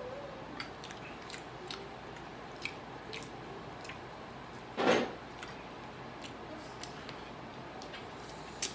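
Eating sounds: grilled chicken being chewed, with many small wet mouth clicks and smacks. About five seconds in there is one short, louder burst of noise.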